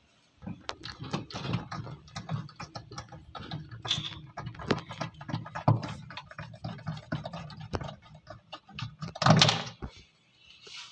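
Two corroded screws on an air cooler's water pump mount being worked loose with a hand tool: rapid, irregular clicking and scraping of metal on the screw heads and plastic, with one louder scrape about nine seconds in. The screws are stiff from corrosion and come out only with effort.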